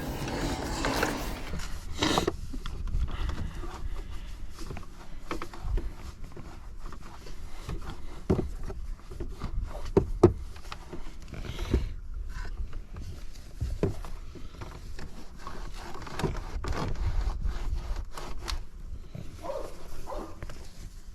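Irregular rubbing and scraping with scattered knocks and clicks, as of surfaces being wiped and objects handled; one sharper knock about halfway through.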